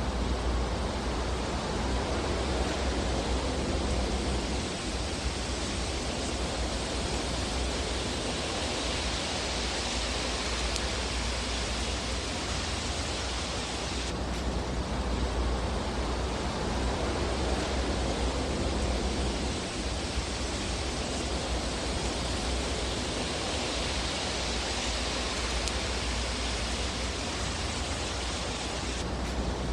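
Fireplace fire burning with a steady hiss and low rumble, with a few faint crackles.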